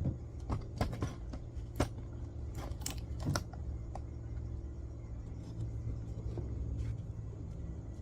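Several sharp clicks and knocks, most in the first few seconds and one more near the end, as of small parts and tools being handled, over a steady low rumble.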